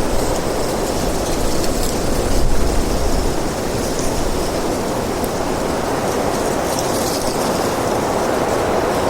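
Steady wind noise, with a low rumble that eases a little about three seconds in.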